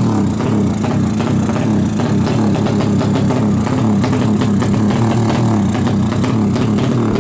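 Kawasaki KLX drag bike's tuned 180cc single-cylinder four-stroke engine running at a steady idle.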